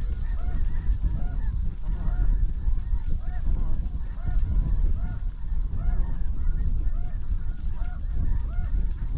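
A flock of snow geese calling, many short rise-and-fall honks overlapping continuously, over a low wind rumble on the microphone.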